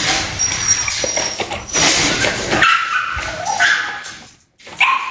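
A dog whining and yipping in short high whines, over a rough noisy stretch in the first half; the whining of a dog held back while waiting to be fed.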